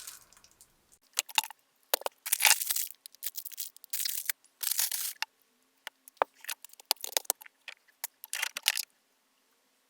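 Food packaging rustling and crinkling as it is handled and sorted, in irregular short bursts with a few sharp knocks in between.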